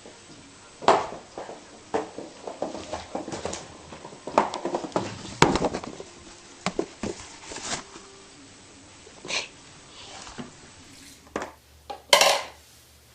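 A run of irregular knocks and clatters, loudest about 12 seconds in, with a few short animal sounds among them.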